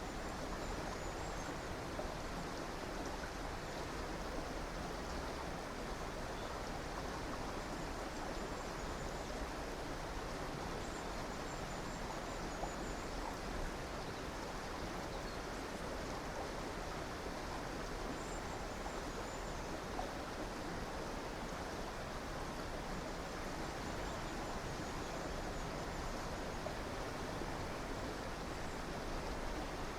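Steady rushing of a river or stream flowing over rocks, an even wash of water noise. Faint high-pitched bird chirps come through a few times.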